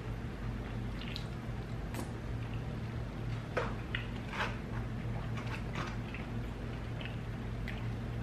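Close-miked chewing of a soft, saucy burrito, with scattered wet mouth smacks and clicks, over a steady low hum.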